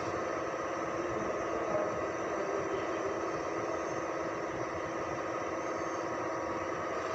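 Ford Expedition V8 engine idling steadily.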